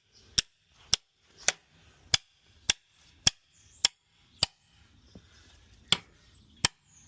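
Hammer blows struck in a steady rhythm, about two a second, with one short pause about five seconds in: hammering to break the tyre bead where rust has stuck it to the rim.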